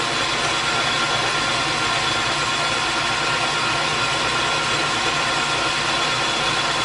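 Metal lathe running steadily under a turning cut: an even motor and gear hum with a few high, steady whine tones.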